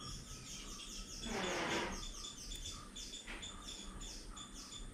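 Birds chirping in the background, a rapid run of short high chirps, many sliding down in pitch. About a second and a half in, a brief louder rustle-like noise.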